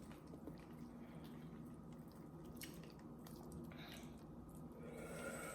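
Faint chewing with a few soft, wet mouth clicks.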